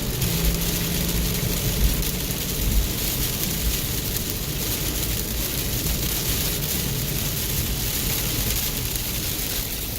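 Heavy downpour: a steady, even hiss of rain, with a low vehicle rumble underneath.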